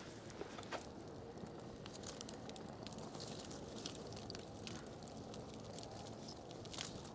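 Campfire crackling, with irregular sharp pops and snaps over a low, steady rush.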